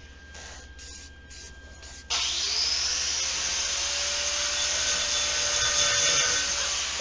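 Angle grinder switched on about two seconds in, its whine rising briefly as it spins up and then holding steady while it grinds metal.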